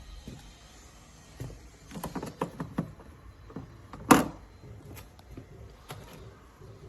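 Handling knocks and clicks on a small plastic mini fridge: a quick run of knocks, then one loud sharp knock about four seconds in, followed by a few faint clicks.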